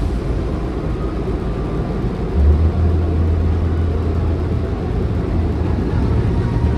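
Steady low rumble of a car, with a deeper, louder hum setting in about two and a half seconds in.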